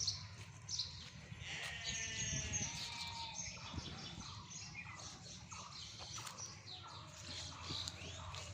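A sheep bleats once, a wavering call about a second and a half long, starting about a second and a half in, while small birds chirp.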